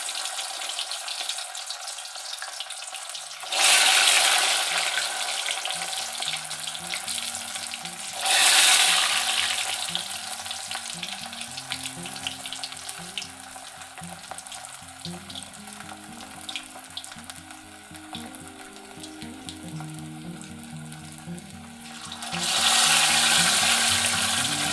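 Par-boiled potatoes deep-frying in hot oil in a steel pot, a steady sizzle. The sizzle surges suddenly three times, about 3.5 s in, about 8 s in and near the end, as more potato pieces go into the oil.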